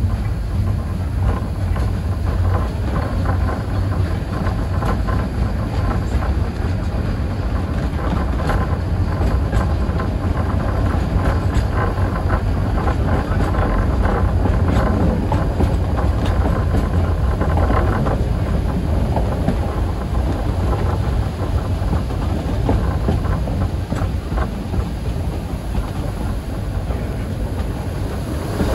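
Train running along the track: a steady low rumble with scattered clicks of the wheels.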